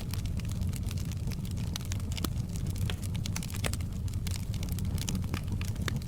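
Wood fire in a fireplace crackling: many sharp, irregular pops and snaps over a steady low rumble of the burning logs.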